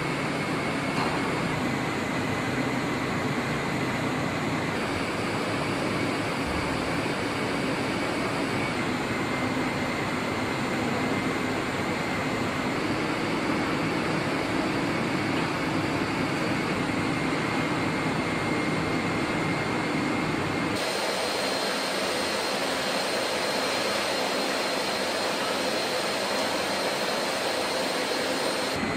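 CNC mill-turn machine running: a steady hiss with thin high whining tones, its character changing abruptly every few seconds.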